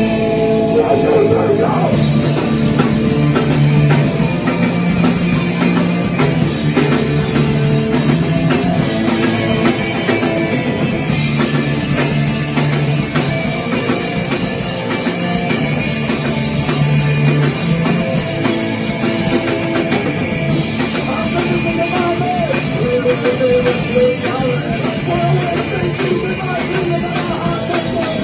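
Rock band playing a song: electric guitar with the rest of the band coming in fully about two seconds in.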